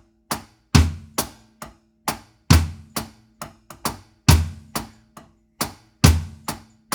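Drum kit playing a reggae one-drop groove: steady quavers on the hi-hat, with the bass drum and snare landing together on the dropped beat about every second and three-quarters, and no bass drum on beat one.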